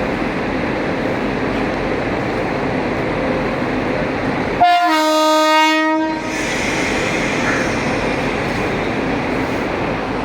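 A locomotive horn sounds once, a single steady blast of about a second and a half, over the continuous rumble of a train.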